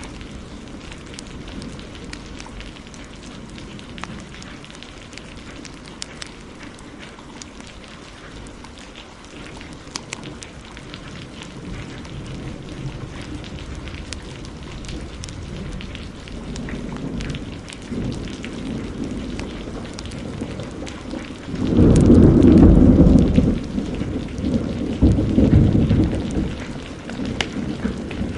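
Heavy rain falling steadily, with sharp crackles from a wood fire scattered through it. About two-thirds of the way in, a loud roll of thunder rumbles for a couple of seconds, then swells again briefly a few seconds later.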